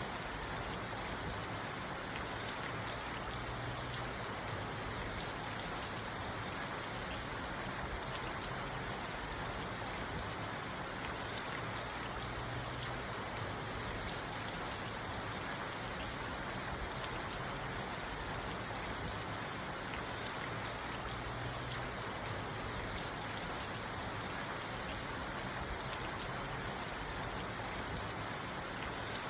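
Steady rain falling on a parked car's roof and windows, heard from inside the cabin as an even hiss with faint drop ticks.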